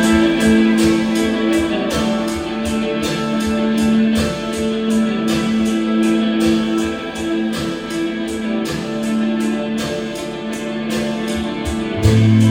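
Live rock band playing: sustained electric guitar chords over a steady drum beat, with a deep bass note coming in near the end.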